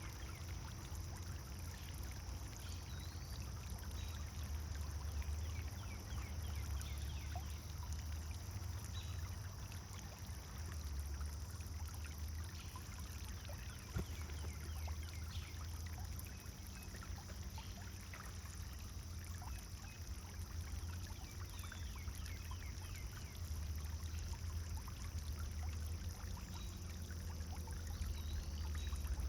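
Pond fountain water pouring and splashing steadily into the pond.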